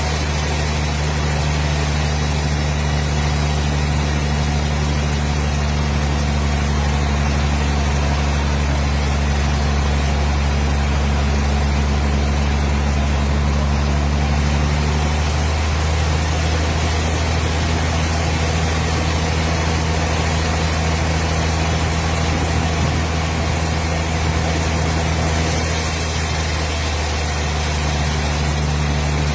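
An engine or motor running steadily with a low hum; its tone shifts slightly about halfway through and again near the end.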